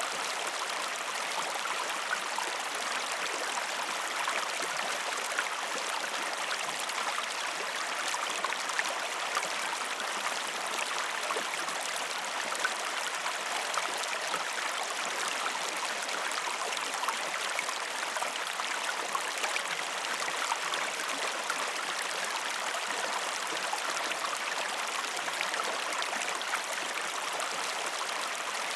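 Waterfall: a steady, even rush of falling water with fine splashing in it.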